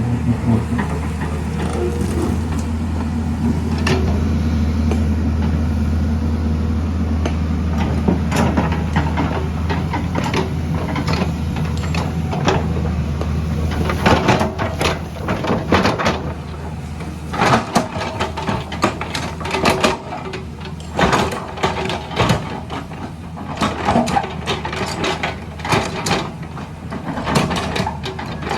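Engine of heavy construction machinery running with a steady low hum. About halfway through this gives way to a run of irregular clanks and knocks, like a bucket or blade working rock and gravel.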